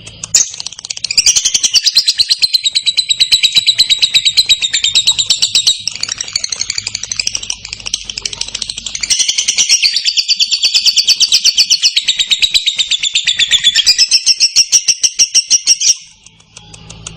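Lovebird singing a long 'ngekek': a fast, high-pitched chattering trill of rapid-fire notes. It runs as two long phrases, the first softening about six seconds in and the second building from about nine seconds, and it stops abruptly near the end.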